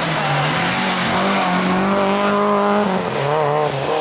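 Rally car engine at high revs, held steady, then dropping in pitch about three seconds in as the car lifts off or changes gear.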